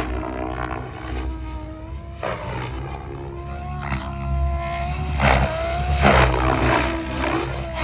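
Tron 7.0 Advance electric RC helicopter in flight: the motor and drive whine slides up and down in pitch, and the rotor blades rush in repeated swells as it manoeuvres.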